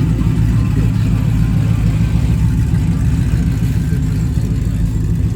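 A vehicle engine running steadily, its sound sitting low and even.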